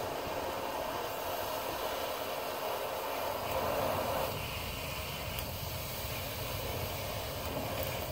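Steady rushing, hiss-like noise that swells briefly about four seconds in.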